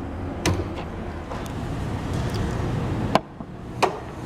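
Steady low rumble of the 2011 Mustang GT's 5.0-liter V8 idling, with a few light clicks and then two sharp knocks near the end as the hood release is pulled and the hood latch is worked open.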